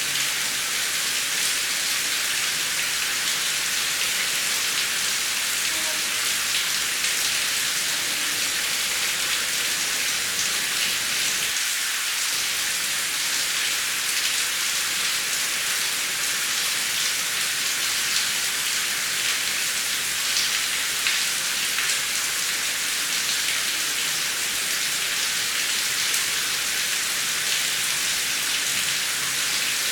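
Heavy rain falling steadily, a dense, even hiss of drops with fine ticks of individual drops striking a surface.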